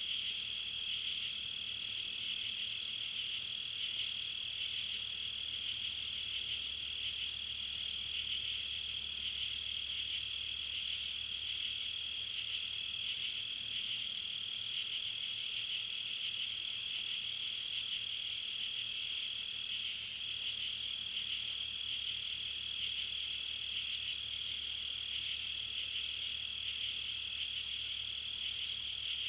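Night chorus of crickets trilling steadily at one high pitch, with faint rapid pulsing in the trill.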